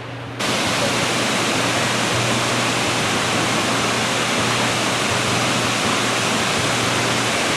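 Waterfall rushing: a steady, loud roar of falling water that starts abruptly about half a second in.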